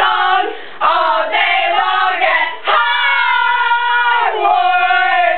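Young girls singing loudly, with a long held note about three seconds in.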